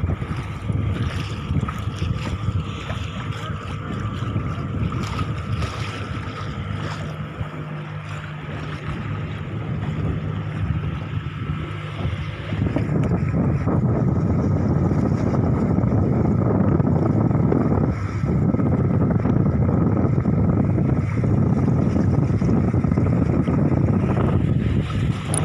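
Small fishing boat at sea: a steady engine hum under wind and water noise. About halfway through, the sound turns louder and duller.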